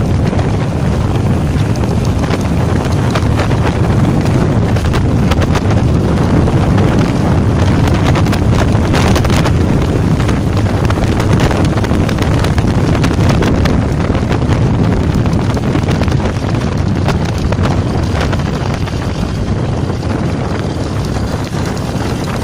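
IZh Jupiter 5 motorcycle's two-stroke twin engine running steadily while riding, with heavy wind buffeting the microphone.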